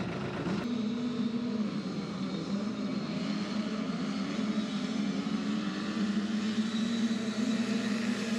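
Motocross dirt bike engines running at high revs in a steady, slightly wavering drone, with a sudden change in the sound just under a second in.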